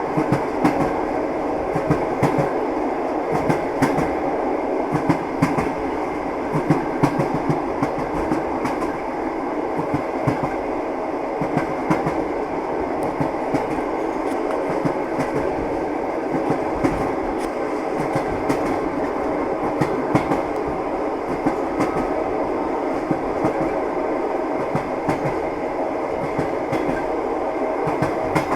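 A moving passenger train heard from aboard a carriage: wheels clicking over rail joints in irregular knocks over a steady rumble of the running gear.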